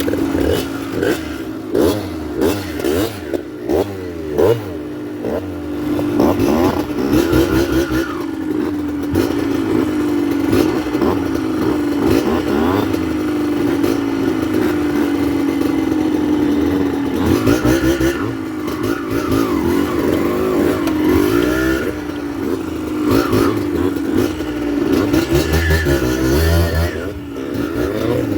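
Yamaha DT 125 two-stroke enduro motorcycle engine, blipped in short revs over the first few seconds, then running continuously with its note rising and falling with the throttle as it rides.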